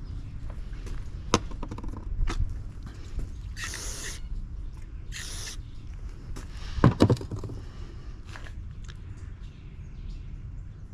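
Two short hissing sprays from an aerosol can of brake cleaner, a second or so apart, wetting pump parts to show up hairline cracks. Scattered clicks and knocks of parts being handled, the loudest a clatter about seven seconds in.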